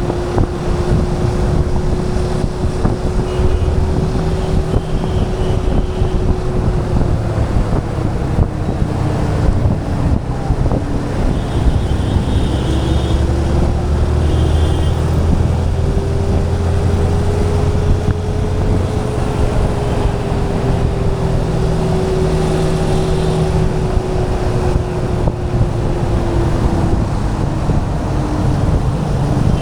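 Yamaha FZ motorcycle's single-cylinder engine running under way, with wind noise on the microphone. The engine note dips about a third of the way in, climbs slowly to past the middle, then eases off again.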